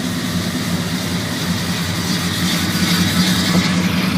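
1984 Chevrolet Scottsdale's rebuilt 350 V8, with an aftermarket cam, Edelbrock carburetor, headers and Flowmaster dual exhaust, idling steadily.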